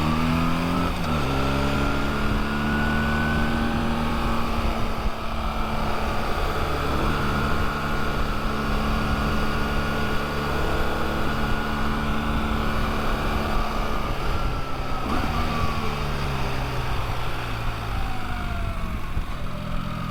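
Motorcycle engine under way. It climbs in pitch over the first few seconds, holds steady, then drops off about three-quarters of the way through, over a constant rush of low wind noise.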